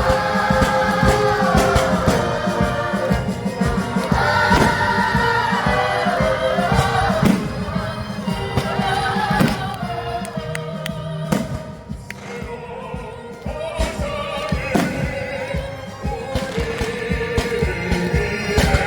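Symphony orchestra playing with choir and solo voices singing, with sharp irregular bangs scattered through the music.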